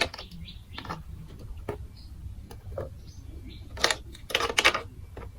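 Plastic marble run building blocks clicking and clattering: scattered light clicks, then a louder run of clatter about four seconds in.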